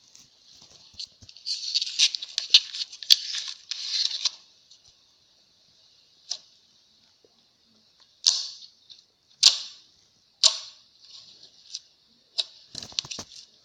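Slime being poked and pressed with fingers: a few seconds of dense crackling, then single sharp pops about a second apart, with a quick cluster of crackles near the end.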